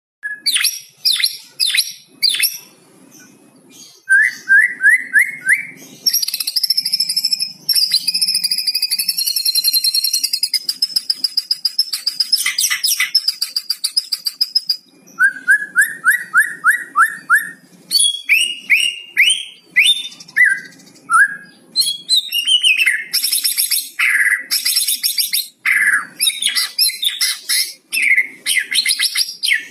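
White-rumped shama (murai batu) singing a fast, varied song of crackling chatter (kretekan), quick runs of rising notes and long high trills and whistles, with hardly a pause.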